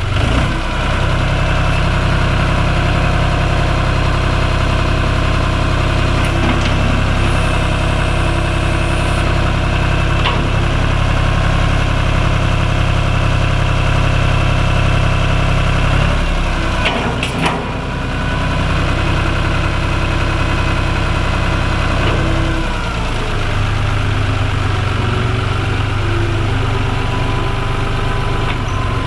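John Deere 5205 tractor's three-cylinder diesel engine idling steadily. Just after halfway there is a brief dip with a few clanks, and the engine note changes about three-quarters through.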